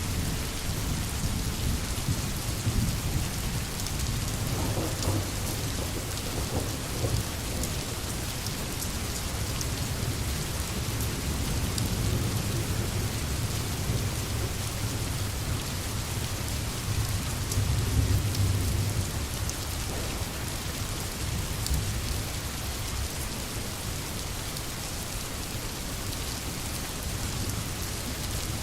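Steady rain falling on a tin roof, with low rolling thunder rumbling underneath that swells twice around the middle.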